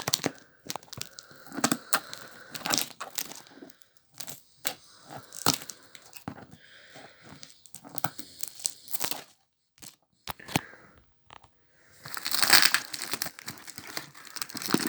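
Packaging being handled and torn open by hand: crinkling with many small clicks and rustles, a short pause, then a louder, longer tearing rip near the end.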